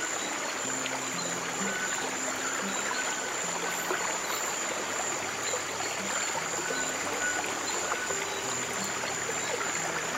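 Steady trickling stream water, with slow, soft piano music of low notes changing every second or so beneath it and a thin steady high-pitched tone above.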